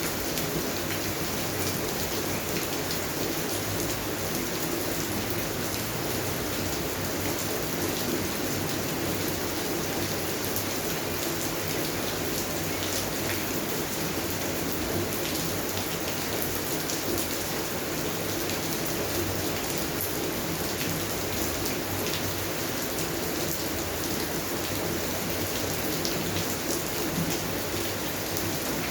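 Steady rain falling on a garden, with many separate drop hits heard through an even hiss of rainfall.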